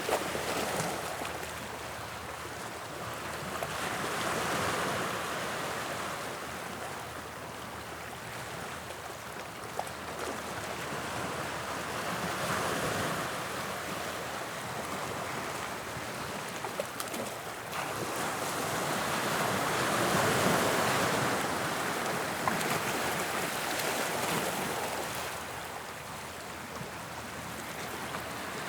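Sea waves breaking and washing on the shore, the surf swelling and falling back in slow surges every several seconds, with some wind.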